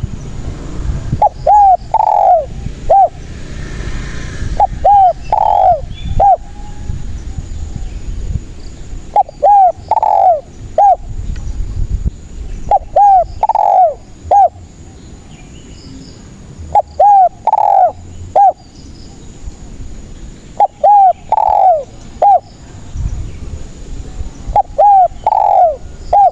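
Spotted dove (tekukur) cooing: short phrases of a few coos repeated about every four seconds, over a low background rumble.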